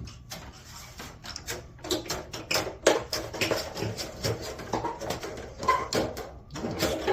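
Hand tin snips cutting a strip off galvanized sheet metal: a rapid series of crunching cuts, with a brief metallic squeal near the end. The snips are dull.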